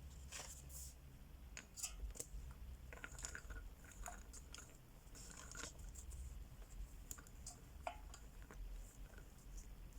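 Wax crayons scratching across coloring-book paper in short, irregular strokes, faint, with a few small clicks and taps among them.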